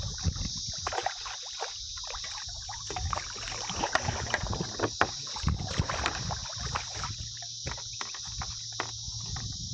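Small irregular knocks, splashes and water movement around a kayak on the river, over a steady high-pitched background hiss.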